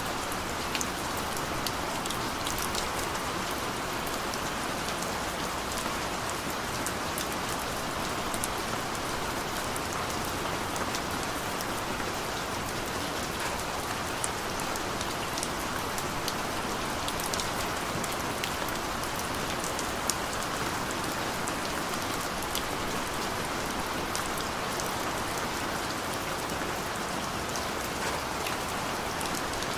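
Steady rain falling, a continuous hiss with many sharp ticks of individual drops hitting a surface.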